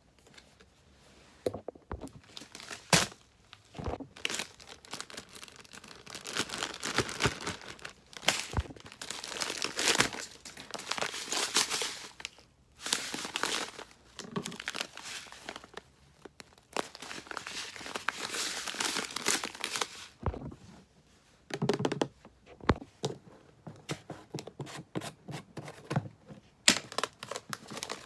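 Packaging being torn open and crinkled by hand: irregular rustling, tearing and crinkling with scattered sharp clicks and taps, pausing briefly now and then.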